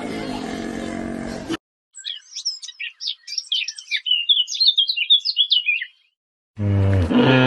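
A songbird singing a fast run of high chirps and trills for about four seconds, with a brief silence on either side. Before it a low animal call runs on for a second and a half and stops abruptly. Near the end a loud, low-pitched animal call starts suddenly.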